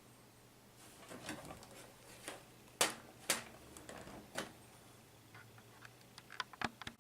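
Irregular clicks and knocks of a plastic-bodied Acer E5-411 laptop being handled for disassembly. Two louder knocks come close together a few seconds in, then a quick run of small clicks near the end.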